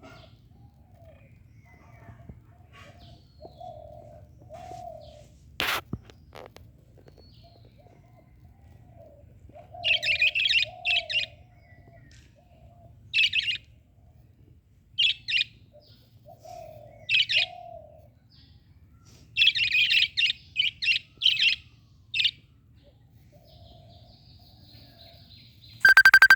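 Small birds chirping in quick bursts of sharp high notes, with softer, lower calls in between and a steady low rumble underneath. A single sharp click comes about six seconds in, and a loud pitched sound cuts in just before the end.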